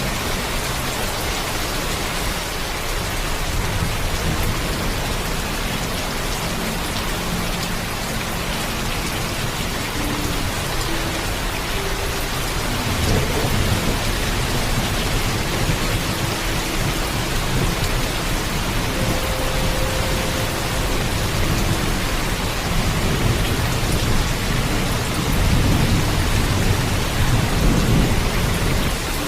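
Heavy, steady rain falling, with low rolling thunder rumbling underneath that swells about halfway through and again near the end.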